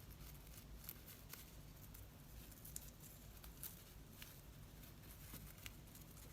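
Near silence with a few faint, scattered light taps and rustles of paper pieces being handled and placed.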